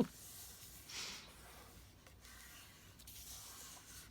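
Faint rustling and rubbing of paper being handled, with a brief louder swell about a second in.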